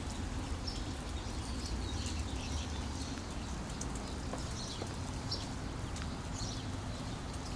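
Outdoor ambience as the rain eases after a storm: a steady low rumble with faint, scattered short high chirps and drips.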